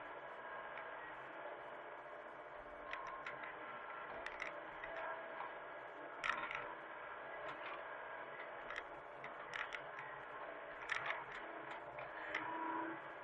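Mini excavator engine running steadily, with scattered irregular metallic clicks and knocks over it.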